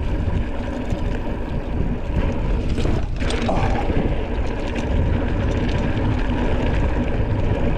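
Mountain bike riding noise: steady wind rumble on the microphone with a constant rattle and clatter of tyres and bike over a rough dirt trail.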